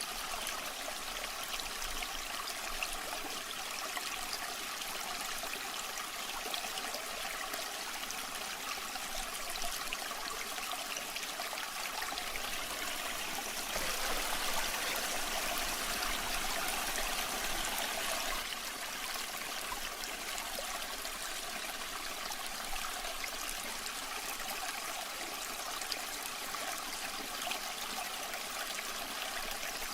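Waterfall water rushing and splashing steadily, a little louder for a few seconds around the middle.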